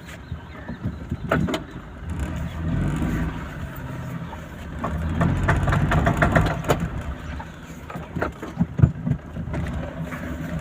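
Daihatsu Cuore running slowly while turning, its engine humming low, with repeated clicking and knocking from a front CV axle joint. The joint kit is worn out and very noisy.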